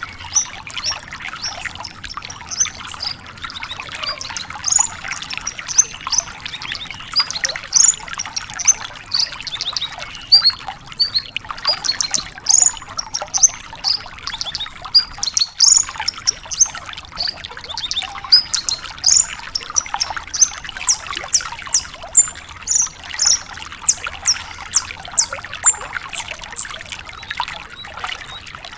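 A branjangan lark singing a fast, varied song of sharp, high chirps and trills, with quick runs of repeated notes toward the end. Under the song runs a steady hiss like trickling water.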